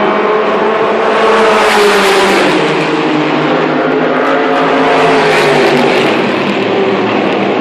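Endurance race cars passing at speed, engines at high revs. One swells and goes by about two seconds in, another around five seconds, the engine pitch dropping as each passes.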